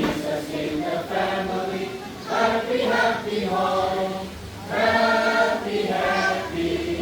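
A congregation of mixed voices singing a hymn together in slow, held notes.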